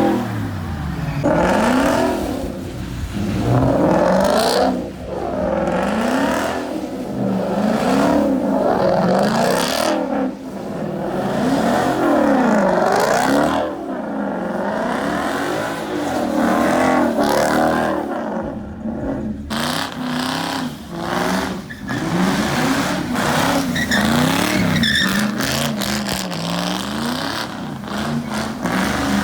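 A car engine revving hard, its pitch climbing and dropping again and again about every one to two seconds.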